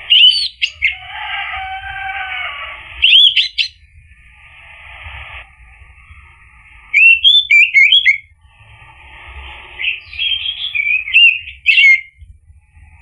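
Orange-headed thrush singing: loud, clear whistled phrases come four times, about three seconds apart, with softer scratchy chattering between them.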